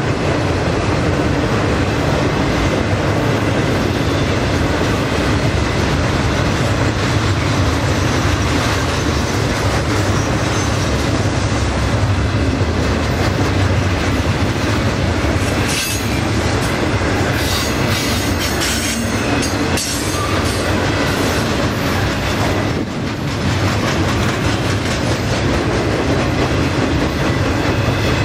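Freight train rolling past at close range: a steady, loud rumble and clatter of wheels on the rails. Brief high-pitched wheel squeals come in a little past the middle.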